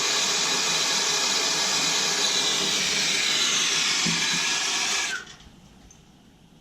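Gas torch flame hissing steadily while heating the water heater tank for soldering, then shut off about five seconds in, the hiss cutting off suddenly.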